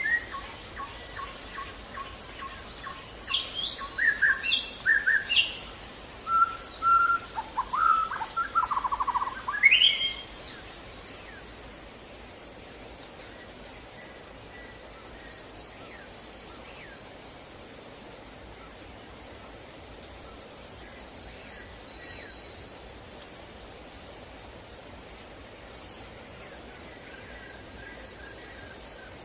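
Wild birds chirping and calling in short whistled phrases for the first ten seconds or so. Under them, and alone after they stop, runs a steady high-pitched drone of insects.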